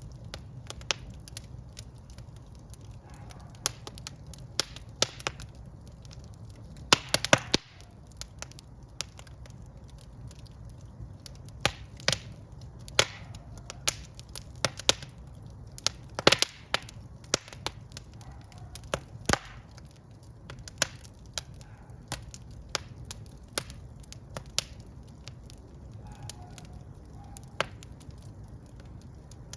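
Wood fire in a fireplace crackling and popping: irregular sharp pops over a low steady rumble, with quick clusters of pops about seven seconds in and again about sixteen seconds in.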